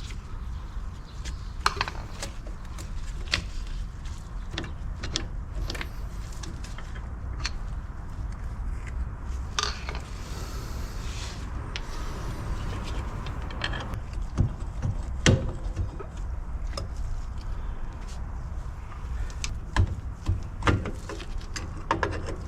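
Metal drum-brake parts and hand tools clinking and knocking as the brake assembly is worked on: irregular sharp clicks over a steady low hum, with a short hissing stretch about halfway through.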